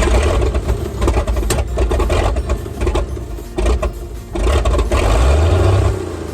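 Engine of a 1957 FWD 4x4 truck cranking and firing unevenly on starting fluid after decades unused, with sharp pops. It catches and runs loud for a moment near the end, then falls away about six seconds in.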